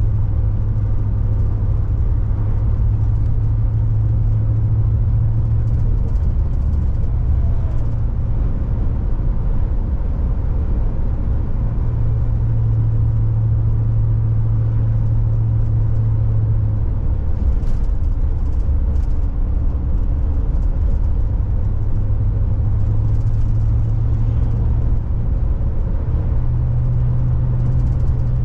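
Steady road and engine noise heard inside a moving car's cabin. A low drone runs throughout and steps up slightly in pitch near the end.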